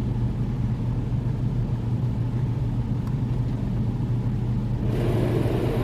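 Steady low rumble heard from inside a car in an automatic car wash between stages; about five seconds in, a hiss of water spray starts on the car.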